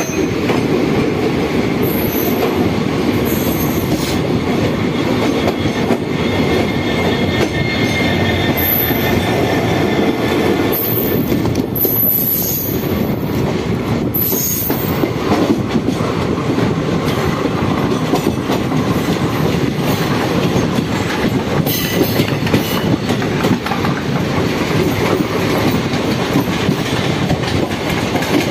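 Indian passenger train running, heard from an open coach doorway: a steady rumble of wheels on rail with clickety-clack over the joints. Several brief high-pitched wheel squeals come mostly in the first half.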